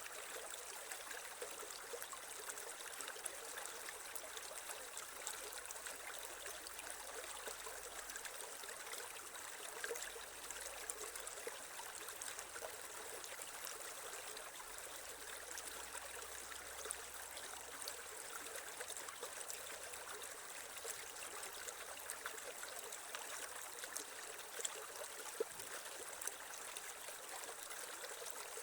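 Creek water flowing and trickling over stones, a steady even babble with small splashes here and there.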